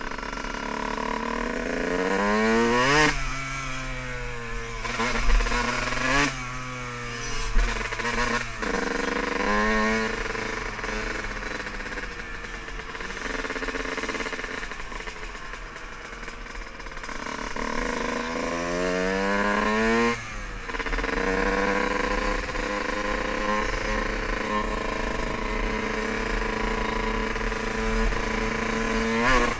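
Dirt bike engine accelerating, its pitch rising several times and dropping back at each shift, with one long climb that cuts off sharply about twenty seconds in, then running steadily at speed.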